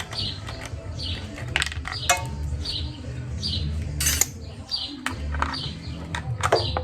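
Metal tools clinking and tapping against the small engine's carburetor in several sharp clicks, while a bird chirps over and over in the background with short falling calls under a steady low hum.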